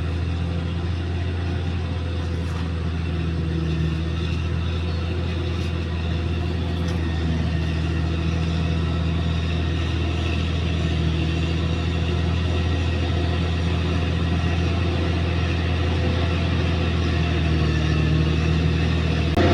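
Bulldozer's diesel engine running at a steady, low pitch, growing slowly louder.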